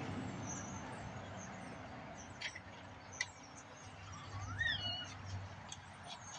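Faint bird chirps, with one clearer call that rises and falls about halfway through, and a couple of light clicks.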